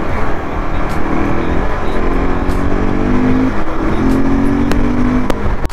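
KTM RC sport bike's single-cylinder engine accelerating hard through the gears, its pitch climbing in about three steps, over a loud rush of wind on the helmet mic. A sharp click comes near the end.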